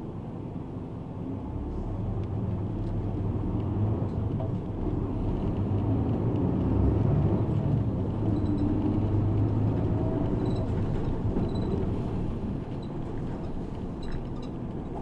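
Route bus engine and road noise heard from inside the passenger cabin, a steady low rumble. It grows louder from about two seconds in and eases off again near the end.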